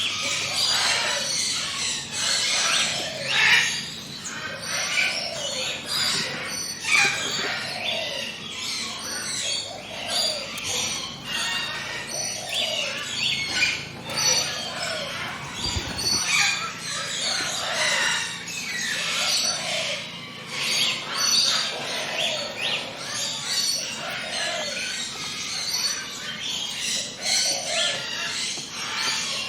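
A chorus of forest birds chirping and singing over one another, with a lower call repeating about once a second beneath the higher chirps.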